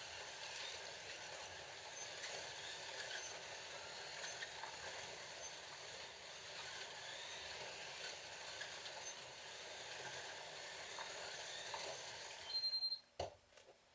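Scalextric slot cars running on the track, a steady whir of the small electric motors and guide braids on the rails. It cuts off abruptly near the end, with a short high beep and a click as track power is stopped.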